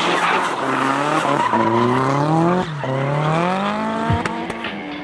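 Race car engine at full throttle, its pitch climbing and dropping back three times as it revs up and shifts, with tyres squealing. It fades about four seconds in.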